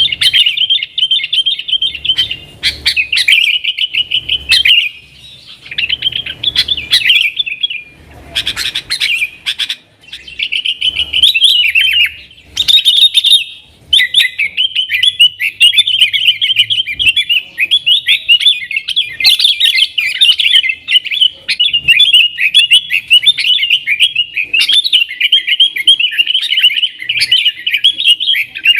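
Yellow-vented bulbul (trucukan) singing vigorously in a fast, chattering warble. It comes in short bursts with brief gaps at first, then runs on almost without a break from about halfway through.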